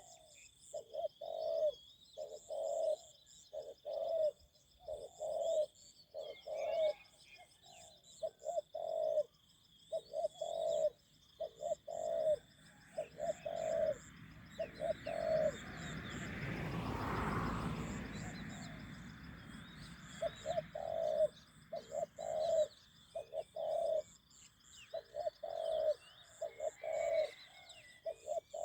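Spotted dove cooing over and over in short repeated phrases, with insects and small birds chirping high above. A broad rumble swells and fades in the middle, breaking the cooing for a few seconds.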